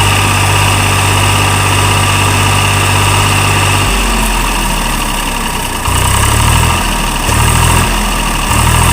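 Tata JD 315 backhoe loader's diesel engine running loud and steady. About four seconds in, its note drops, and then it swells and falls several times as the engine is put under varying load.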